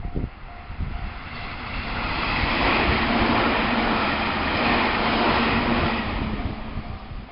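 Meitetsu Panorama Super electric express train passing at speed. Its running noise builds over about two seconds, stays loudest through the middle, and then fades away.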